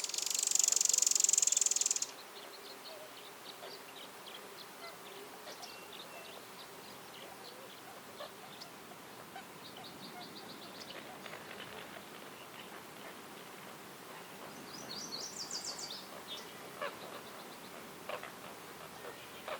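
Wild birds calling in woodland: a loud, harsh, rapidly pulsed call in the first two seconds, then scattered faint high chirps and a short rapid trill near the end.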